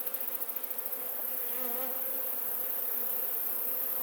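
Honey bees buzzing as many of them fly around an opened hive, a dense, wavering hum. They are drawn to exposed honey and looking to rob it. A steady high-pitched hiss sits over the buzzing.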